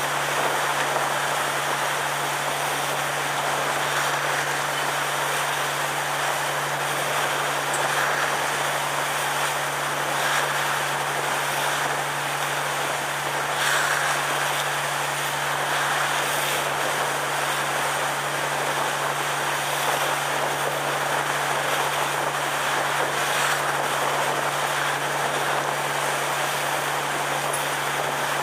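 Sightseeing cruise boat's engine running steadily: a constant low hum under an even rushing noise, with no change in pace.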